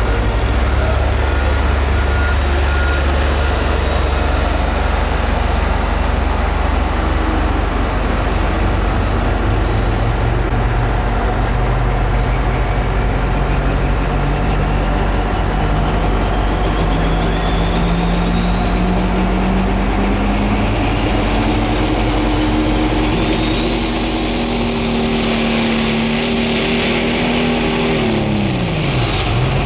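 Pro stock diesel pulling tractor engine running loud under load, its pitch climbing steadily over many seconds with a high turbocharger whistle rising alongside. Near the end both drop away quickly as the engine comes off throttle.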